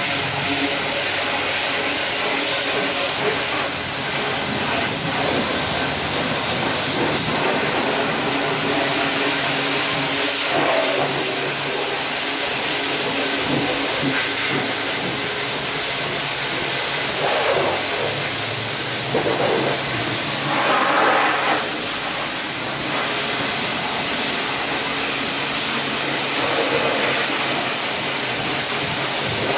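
Car-wash equipment running: a steady hiss with a motor hum under it, swelling louder a few times, around ten and twenty seconds in and again near the end.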